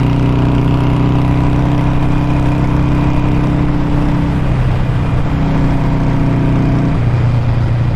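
2015 Harley-Davidson Sportster 883 Superlow's air-cooled V-twin engine running steadily under way. The engine note changes about seven seconds in.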